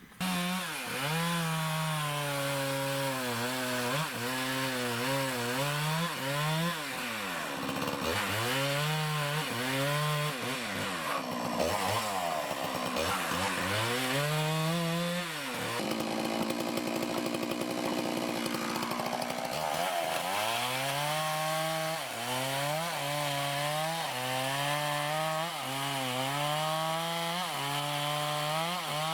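Chainsaw running under load, cutting wood, its engine pitch dipping and recovering over and over. Partway through, the pitch steadies for a few seconds.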